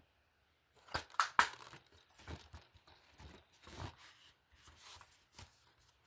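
Plastic disc cases being handled: three sharp clacks about a second in, then scattered rustling and scraping.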